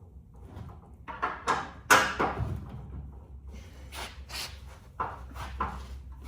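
A string of irregular knocks and clanks as a suspension strut and its bolts are worked and shifted into line. The loudest knock comes about two seconds in, with more scattered ones after.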